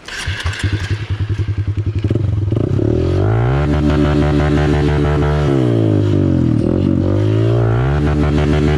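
Dirt bike engine starting up: uneven firing for about two seconds as it catches, then running steadily, with the revs dipping and rising back about two-thirds of the way through.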